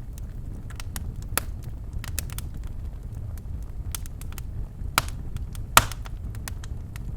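Birchwood fire crackling in a fireplace: irregular sharp pops and snaps over a steady low rumble of the burning logs, with two louder pops about five and six seconds in.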